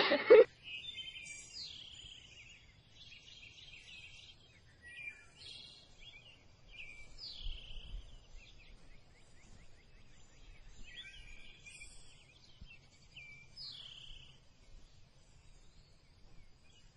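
Birds chirping: short, high calls, several of them sweeping down in pitch, come every few seconds over a faint low background hum.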